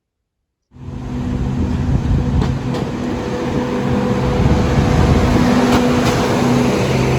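A vehicle engine running, a steady low hum with light clicks, starting abruptly under a second in.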